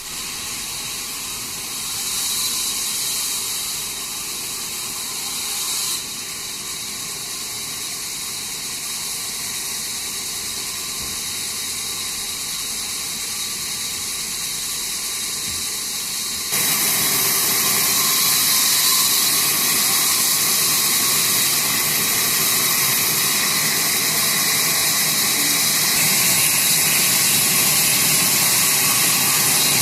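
Sawmill saw running with a steady hissing whine. It becomes suddenly louder and brighter a little over halfway through.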